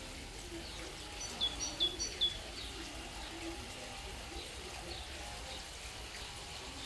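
A small bird chirping: a quick run of about five short, high notes, each dropping in pitch, starting about a second in, over a steady low hum.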